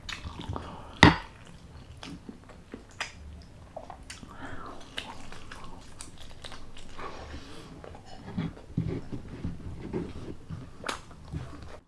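Close-miked biting and chewing of chicken adobo, wet, irregular mouth sounds with scattered small clicks; the sharpest click comes about a second in.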